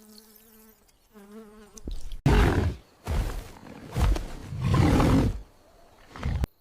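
A wavering insect buzz for the first two seconds, then four loud, rough animal roars in a row.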